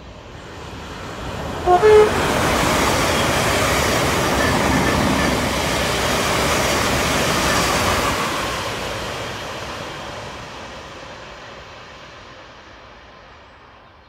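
Thameslink Class 700 electric multiple unit sounds two short horn toots as it approaches, then runs through the station at speed. Its rushing wheel and air noise builds, holds loud for several seconds and fades slowly as it goes away.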